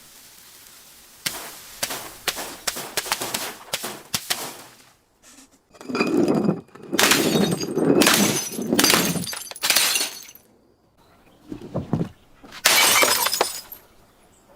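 Glass being broken and crushed: a run of sharp cracks, then a long stretch of dense crunching and shattering, and after a short pause a few more cracks and a last loud shatter near the end.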